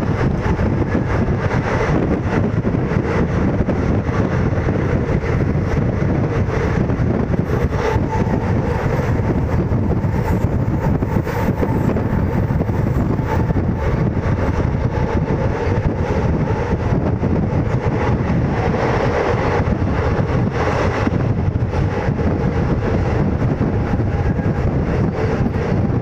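Indian Railways ICF passenger coach running at speed on the rails, a loud, steady rumble with a faint steady tone above it.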